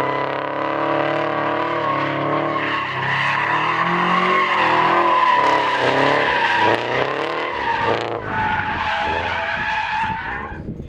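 Car drifting: tyres squealing steadily while the engine revs up and down again and again under throttle, the squeal dying away near the end.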